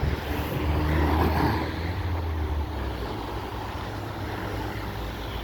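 Low rumble of a road vehicle's engine passing, strongest for the first two and a half seconds and then easing, over a steady hiss of outdoor noise.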